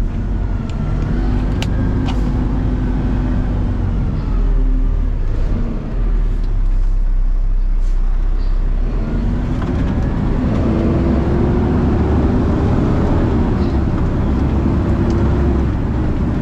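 Garbage truck engine running as the truck drives, with its pitch rising about nine seconds in as it speeds up.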